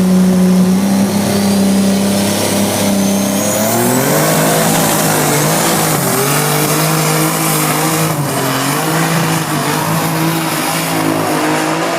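Pulling tractor's engine running hard at full throttle during a pull. Its note holds steady, then climbs about four seconds in and wavers up and down, with a thin high whine rising early on.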